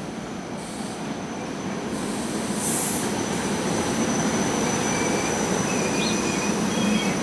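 SEPTA Silverliner IV electric commuter train pulling into the station and rolling past close by, its rumble growing louder over the first few seconds and then holding steady. Short high wheel squeals come near the end.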